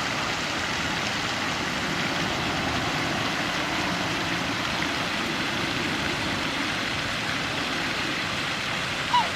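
Steady rushing outdoor noise, with one short, sharp bird call near the end.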